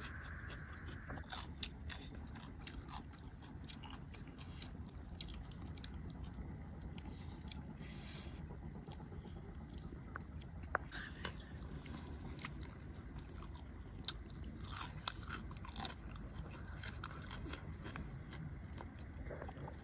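Close-miked eating sounds: a person chewing and biting spicy noodles and crisp raw vegetables, with many small crunches and wet clicks. A few louder crunches come about 11 and 14 seconds in, over a low steady background rumble.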